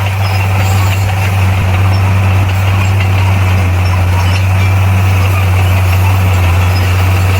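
Komatsu D58P bulldozer's diesel engine running at a steady speed, a constant low drone with no revving.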